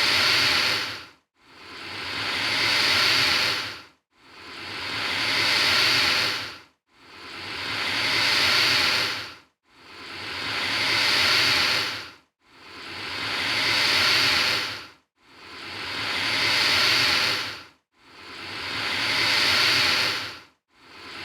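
Alligator hissing: a string of identical breathy hisses at an even pace, about one every three seconds. Each swells over roughly two and a half seconds and then cuts off sharply.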